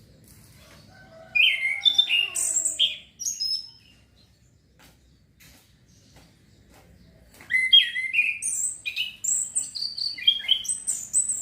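Male orange-headed thrush singing: two phrases of quick, varied whistled and chirped notes, the first about a second in, the second starting just past the halfway point and running on.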